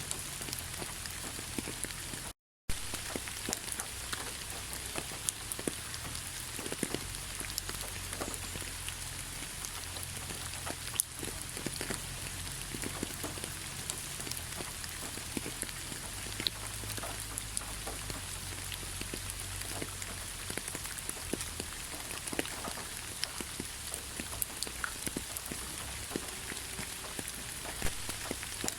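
Heavy rain falling steadily: a dense hiss of countless drops with scattered sharper drop ticks. The sound cuts out completely for a split second about two and a half seconds in.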